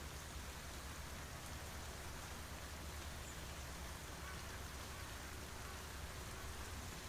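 Steady rain falling, an even hiss of drops with a faint low rumble underneath.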